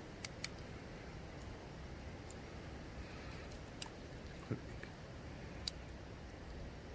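Quiet eating: a few light, scattered clicks and taps of utensils over a faint steady background hiss.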